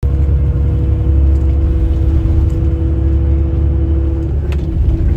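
Road vehicle running with a loud, steady low rumble and two steady tones that stop about four seconds in.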